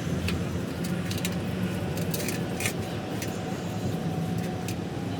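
Scattered light metallic clicks and clinks of steel gearbox parts being handled and fitted, over a steady low hum.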